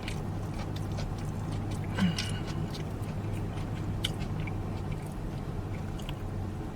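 Close-miked chewing and lip-smacking of a person eating, with small wet clicks scattered throughout and a sharper mouth sound about two seconds in.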